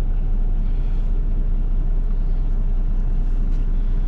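A semi truck's diesel engine running, a steady low rumble.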